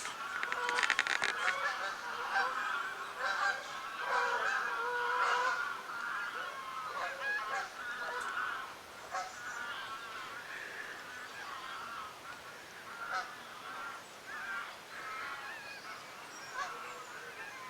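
Geese honking, many overlapping calls from a flock, busiest and loudest in the first third and thinning out toward the end.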